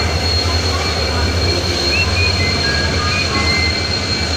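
Train moving along the near track: a steady low rumble with a thin, steady high squeal running through it and short high squeaks from time to time.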